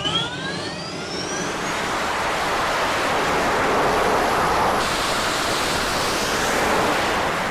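Jet engine spooling up on a carrier flight deck: a whine rising in pitch over the first second or two, giving way to a steady jet roar.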